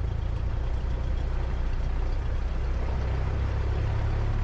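Cessna 172 piston engine idling steadily after the pre-takeoff run-up, heard from inside the cockpit as a low, even drone.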